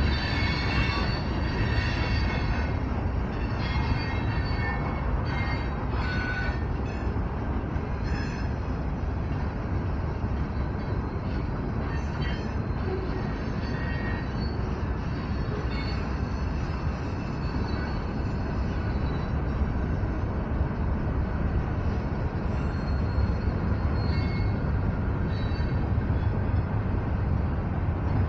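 Long freight train of intermodal container cars rolling past at a grade crossing: a steady low rumble of wheels on rail, with short high-pitched tones coming and going over it, most of them in the first several seconds.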